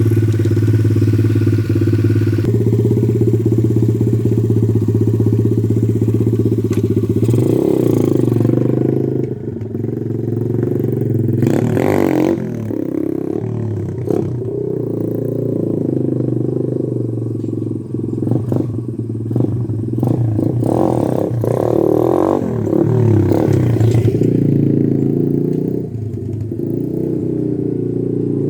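125cc pit bike engine running steadily, then revved up and down repeatedly from about eight seconds in, with several sharp rises in pitch. This is the sound of the bike being throttled hard in first gear for wheelie attempts.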